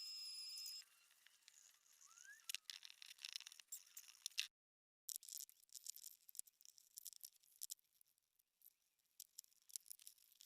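Near silence: a steady high tone cuts off about a second in, then faint, irregular high crackling and ticking, broken once by a half-second of dead silence.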